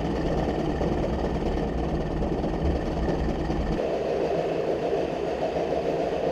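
Johnson 25 hp outboard motor running steadily at idle in neutral, its carburetor's low-speed mixture readjusted so it now runs fine. The tone of the running sound changes about two-thirds of the way through.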